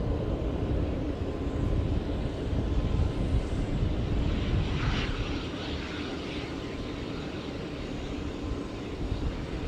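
Fixed-wing aircraft engines rumbling as a plane passes the airfield, loudest over the first four seconds or so and then easing off.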